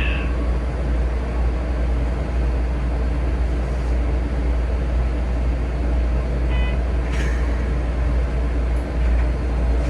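Steady low rumble of a Keikyu 2100-series train heard from the driver's cab, with a brief short tone about six and a half seconds in and a short hiss about seven seconds in.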